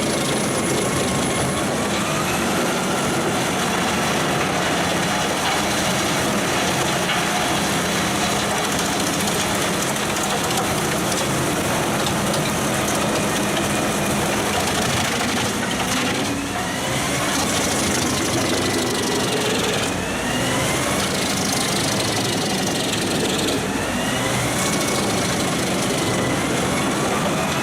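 Large forestry wood chipper running and chipping wood: a steady heavy engine drone over the grinding, crackling noise of wood being chipped. Several times in the second half the engine's whine dips briefly and then climbs back as it takes load.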